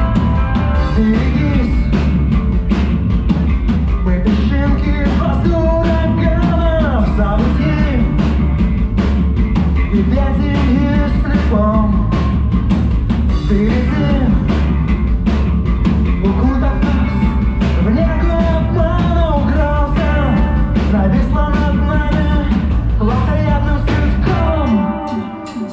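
Rock band playing live, with a drum kit and a voice singing over the instruments. The music drops out briefly just before the end.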